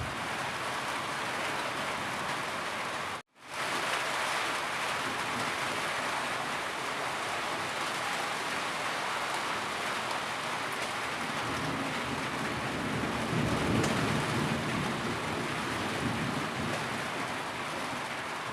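Steady heavy rain falling on surfaces, an even hiss of many drops. The sound cuts out for a split second about three seconds in, and a low rumble swells for a few seconds past the middle.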